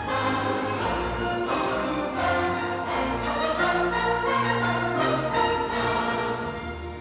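Orchestral film score led by bowed strings, a little quieter near the end.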